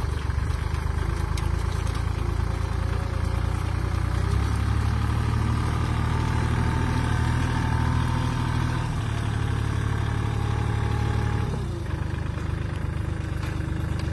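Kubota L5018 tractor's diesel engine running steadily. Its note shifts about four seconds in and again near nine seconds, then drops clearly about twelve seconds in.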